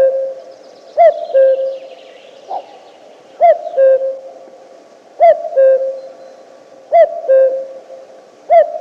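An animal's hooting call: a short rising-and-falling note followed by a longer, steady, slightly lower note, repeated five times about every one and a half to two seconds.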